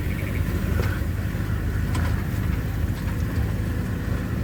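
A car driving slowly, with a steady low engine and road rumble.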